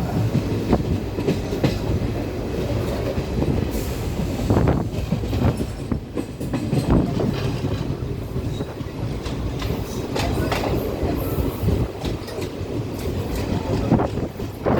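A train running on the rails: a steady low rumble of the wheels, with irregular clicking and clatter over the track.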